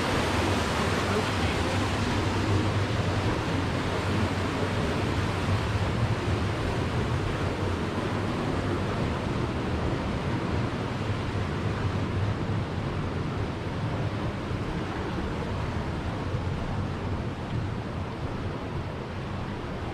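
Tour boat under way on a river: a steady rush of wind and water over a low engine drone, easing off a little near the end.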